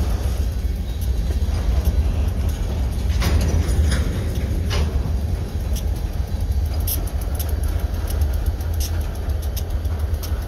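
Freight train of covered hopper cars rolling slowly past, a steady low rumble of steel wheels on rail. Sharp clicks from the wheels and running gear come now and then, more often in the second half.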